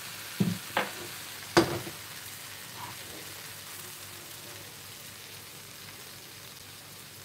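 Stir-fry of noodles, bean sprouts and vegetables sizzling steadily in a wok over a gas flame. In the first two seconds a few sharp knocks sound as metal kitchen utensils are set down on the worktop.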